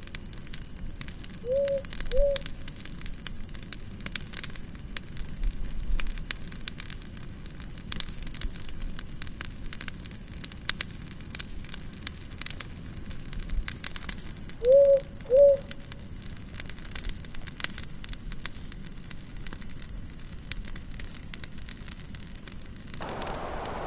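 Campfire crackling, with many small pops and snaps over a steady hiss of burning. A low two-note call sounds twice, about two seconds in and again about fifteen seconds in.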